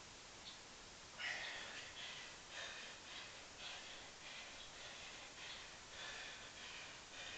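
Heavy, rapid breathing of a man exerting himself through a long set of one-leg (pistol) squats: quick, regular breaths, a little under two a second, starting about a second in.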